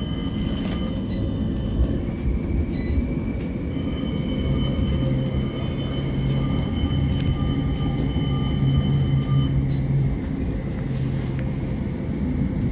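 CAF Urbos 3 tram running as it pulls away, heard from inside the car: several steady whining tones from the traction equipment over the low rumble of the wheels on the rails.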